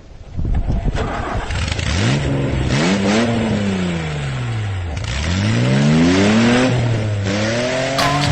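Volkswagen 1.8 GTI four-cylinder petrol engine in a home-built tractor being revved twice, its pitch climbing and falling back each time.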